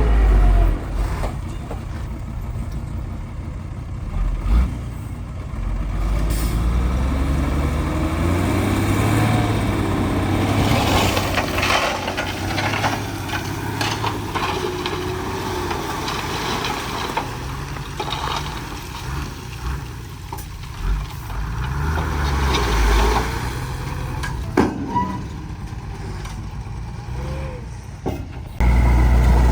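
Heavy diesel machinery running under load, its engine note shifting up and down, with bursts of hissing and a few sharp knocks. The engine is louder again near the end.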